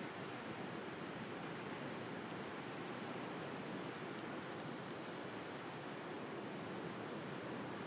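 Steady wash of sea waves, with faint, scattered crackling pops from a wood bonfire.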